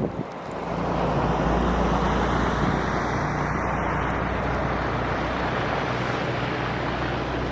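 Semi-truck running with a steady low engine hum under a loud rush of road and wind noise, which swells in about half a second in and then holds steady.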